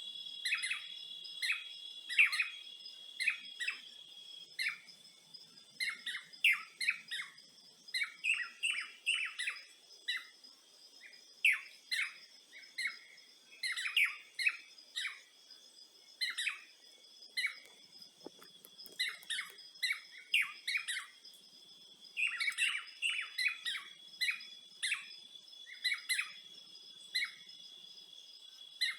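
Birds chirping in many short, quick calls, over a steady high-pitched whine.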